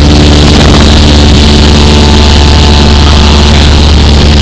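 Cessna 172's piston engine and propeller running steadily: a loud, even drone with a strong low hum.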